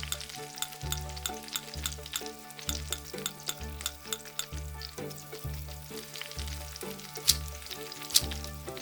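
Food sizzling and crackling in a tiny frying pan, with a few louder crackles near the end, over background music with a steady low beat.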